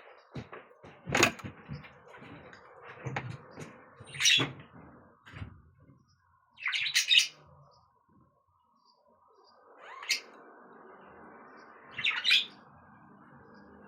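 Pet budgerigar chirping in short, sharp calls about five times, with some clattering and knocking of things being handled in the first half.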